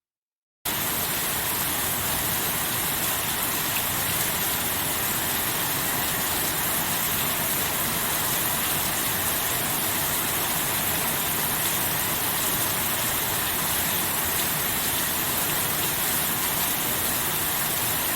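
Heavy, steady rain: a dense, even hiss with no let-up, cutting in abruptly after a moment of silence.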